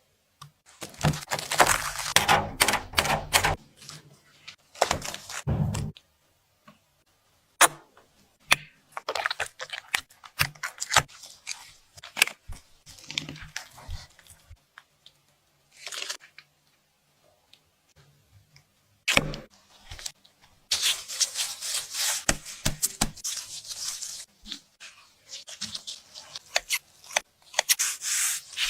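Kitchen handling sounds from dessert making: irregular clicks, taps and rustling or scraping in several clusters, with short pauses between them.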